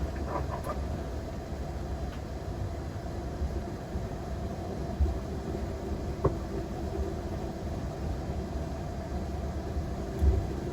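Steady low hum and rumble of a parked airliner's cockpit before engine start, with a few faint knocks.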